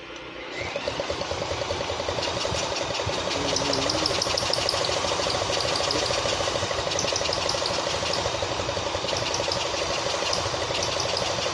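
Engine of an old tractor, once seized and now freed, starting up about half a second in and then running steadily with a rapid, even firing.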